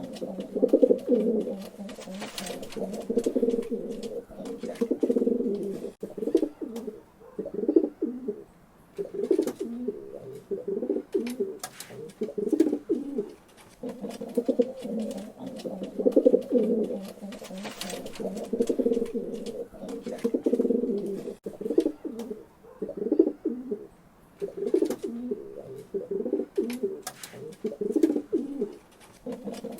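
Pigeons cooing in repeated low, throaty phrases, one after another with short pauses between groups, and scattered short clicks.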